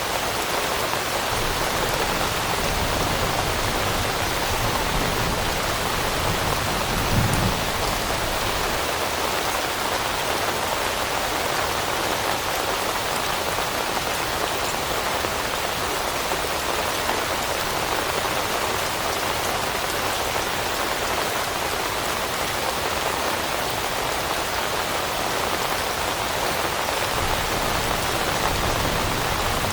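Steady rain falling, an even dense patter with no let-up. About seven seconds in there is one brief low thump.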